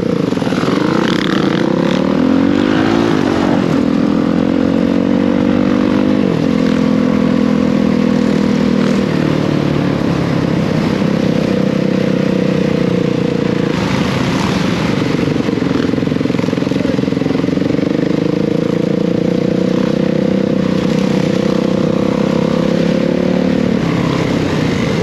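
Dirt bike engine running under way, its pitch rising and falling as the throttle opens and closes and the gears change, several times over.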